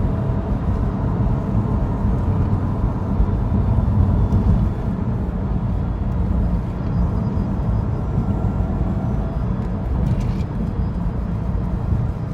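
Stock 2012 Subaru Impreza WRX STI on the move: a steady low rumble of engine and road noise from its turbocharged flat-four on the factory exhaust.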